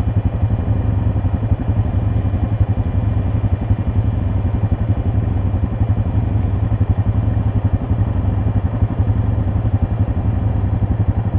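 ATV engine running steadily, a dense low pulsing drone with no revving up or down.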